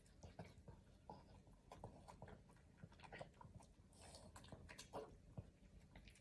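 A Maltipoo eating soft fresh dog food: faint, irregular chewing and lip-smacking clicks.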